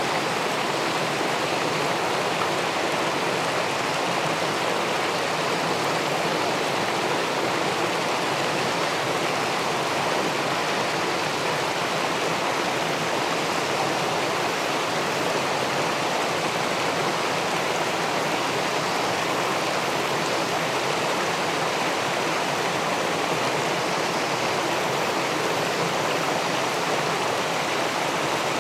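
Steady rush of river water pouring over and below a weir into a pool, an even, unbroken noise with no change in level.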